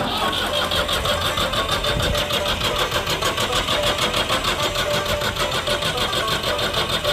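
Ford 4600 tractor engine turning over with a steady, fast rhythmic beat, being brought back to life after running out of fuel.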